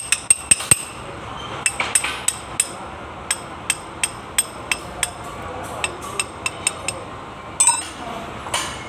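Hammer tapping on metal: about twenty sharp strikes with a bright metallic ring, in short irregular runs of two or three a second.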